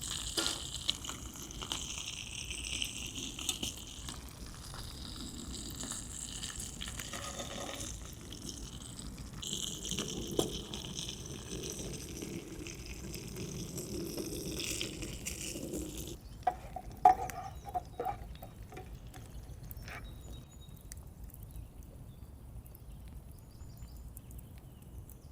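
Water pouring in three spells over about sixteen seconds, followed by a few knocks and clatters.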